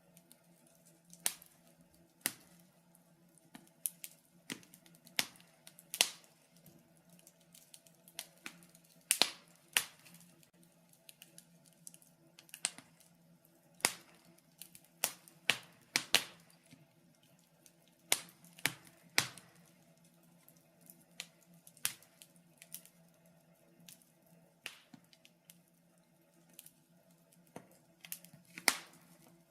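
Wood fire in a fireplace crackling, with sharp irregular snaps and pops, often one or two a second, some louder than others, over a faint steady low hum.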